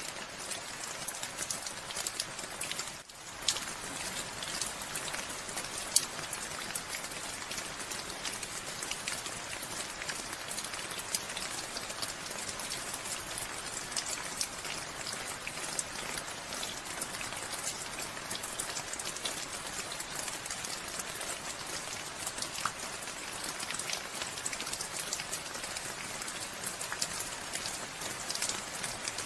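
Steady rain falling, a dense patter of drops with a few sharper single drops standing out. The sound briefly drops away for a moment about three seconds in.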